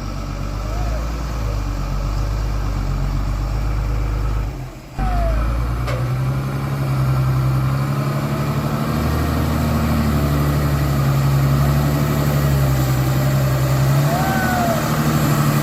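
Heavy off-road truck's diesel engine running steadily under load, with an abrupt break about five seconds in after which the engine note comes back stronger.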